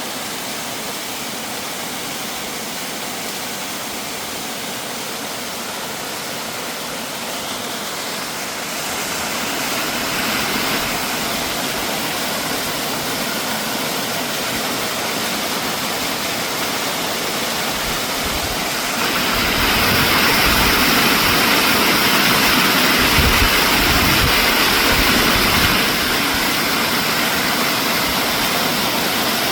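Mountain stream and waterfall rushing hard, the water swollen after heavy overnight rain. The rush grows louder about a third of the way in and louder still past the middle, with a low rumble, before easing slightly near the end.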